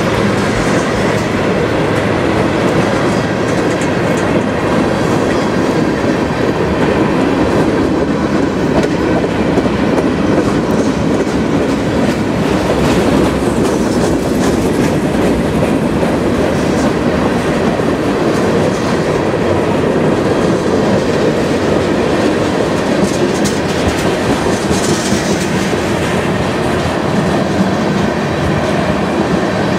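Freight train cars, mostly tank cars and covered hoppers, rolling past close by: a steady, loud rumble of steel wheels on rail with a continuous clickety-clack.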